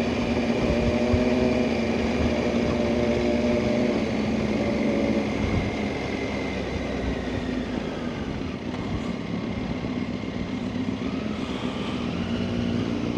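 Motorcycle engine running at a steady pace under wind rush on the microphone; the engine tone fades about five seconds in, leaving mostly wind and road noise.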